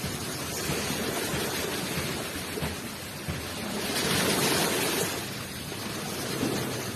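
Ocean waves rushing onto the shore: a steady wash of surf that swells to a peak about four seconds in and falls back.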